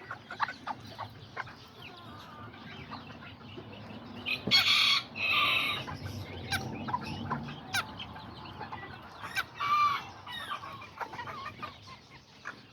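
Bantam chickens clucking, with a rooster crowing twice: once about four and a half seconds in and again about nine seconds in.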